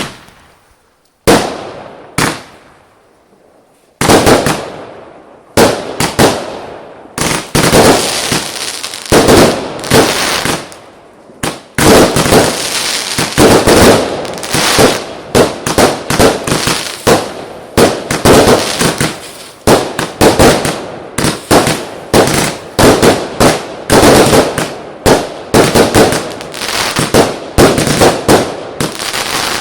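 Consumer firework battery (cake) firing its shots in sequence: a few separate bangs in the first seconds, then a rapid string of bangs, about two a second, from about twelve seconds in.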